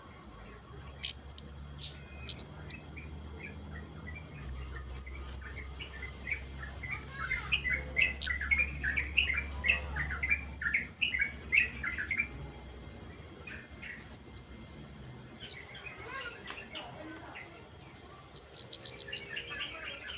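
Kemade (flowerpeckers) calling busily: sharp high chirps and chattering notes, with thin rising high notes over them. Loud bursts of calls come about five, ten and fourteen seconds in, and a fast high trill near the end.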